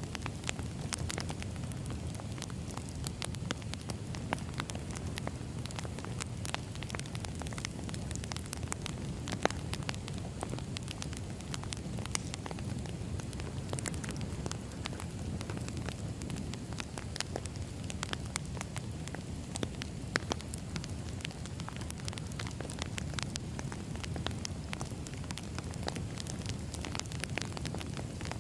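Firewood burning: a steady low rumble of flames with irregular sharp crackles and pops from the logs throughout.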